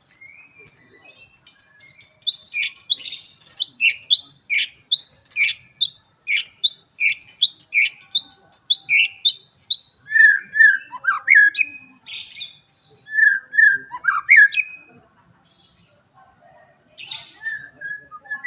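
White-rumped shama singing: a long run of quick downward-sweeping notes, about two a second, followed by lower whistled phrases broken by a few harsh, raspy notes.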